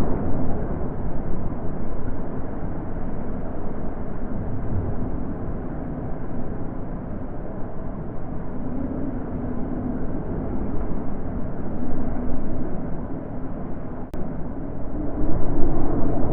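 Wind blowing: a low, steady rush that swells and eases in gusts, stronger at the start, dropping in the middle and rising again near the end.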